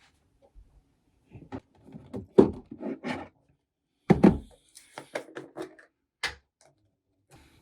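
A series of knocks, thuds and clicks in a small room, loudest about two and a half and four seconds in.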